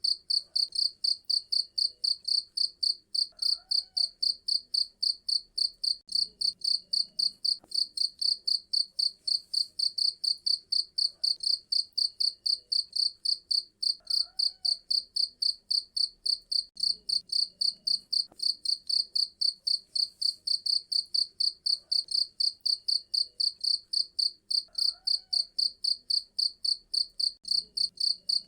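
Cricket chirping loudly and steadily, a high-pitched song of rapid, evenly spaced pulses.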